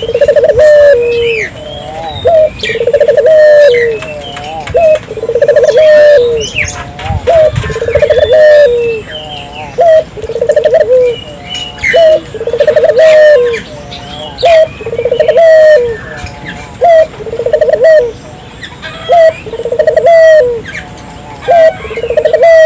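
A puter (ringneck) dove cooing steadily, one short coo roughly every second or so. Quick high chirps from smaller birds come in between the coos.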